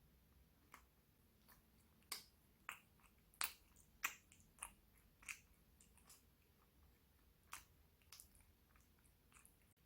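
Close-miked chewing of a chewy macaron: a string of sharp, irregular wet mouth clicks, most of them in the first half, over a quiet background.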